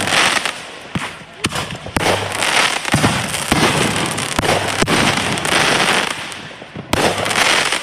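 Fireworks going off: dense crackling with many sharp bangs scattered throughout, one loud bang about seven seconds in.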